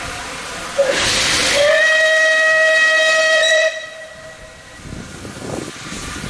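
Steam locomotive whistle blown once: a rush of steam about a second in, settling into one steady shrill note that cuts off sharply after about three seconds.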